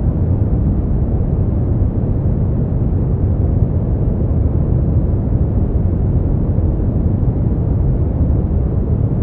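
Steady brown noise: an even, deep rumbling hiss, strongest in the low end and fading out toward the highs, with no change in level.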